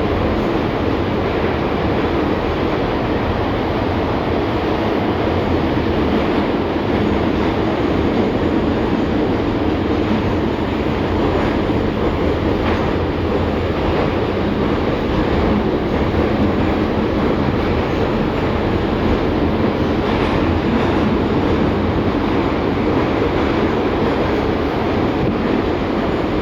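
LVS-2009 tram running along the line, a steady rumble of wheels on rails and traction gear heard from inside the passenger car, with a few light clicks from the track about halfway through.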